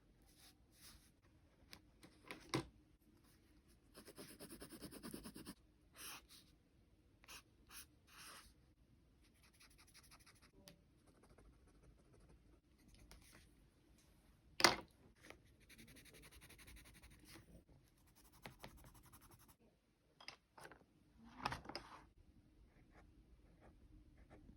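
Pen writing on paper in short scratchy strokes, broken by a few sharp knocks, the loudest about halfway through.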